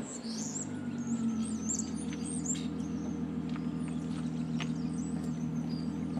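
1999 Audi A6 (C5) engine idling steadily through a straight exhaust, with high chirps over it in the first few seconds.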